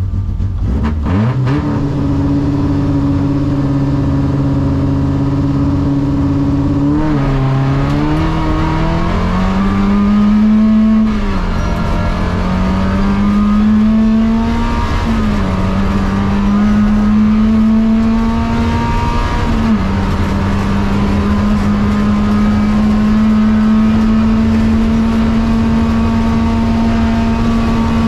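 Renault 18 rally car's engine heard from inside the cabin, revving up and held at steady revs for several seconds. It then pulls hard through the gears, the pitch climbing and dropping back at three upshifts a few seconds apart, before settling at steady revs.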